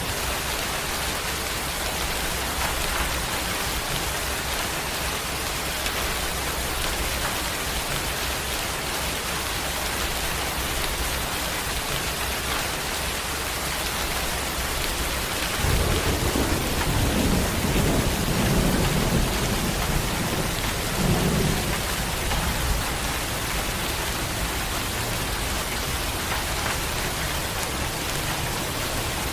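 Steady rain falling, with a roll of thunder rumbling low for about six seconds from roughly halfway through.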